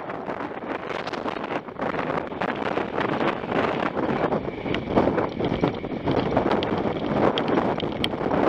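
Wind rushing over the microphone on a moving train, with steady running noise and many short rattles and clicks throughout.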